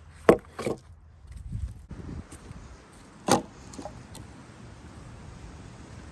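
German-style hatchet chopping firewood: a sharp chop, a lighter one just after, then another sharp chop about three seconds in.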